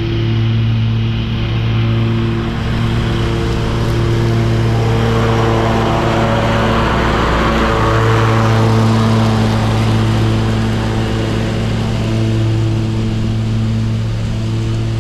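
Lawn mower engine running steadily while its blades mulch leaves, with a rushing noise that swells and fades about halfway through.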